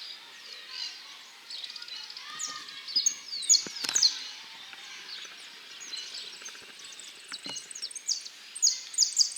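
Male saffron finch singing: bursts of sharp, high chirps, busiest about three to four seconds in and again near the end, with other birds chirping in the background.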